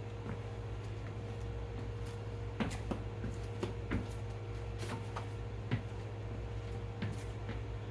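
Pot of chicken broth at a rolling boil, with irregular bubbling pops and clicks over a steady low hum.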